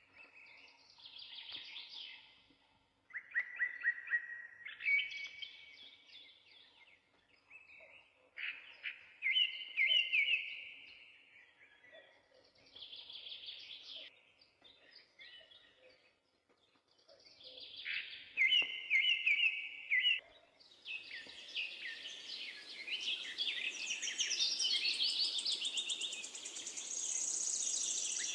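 Birds singing in short, repeated chirping phrases with pauses between them. About two-thirds of the way through, several birds call at once over a steady hiss.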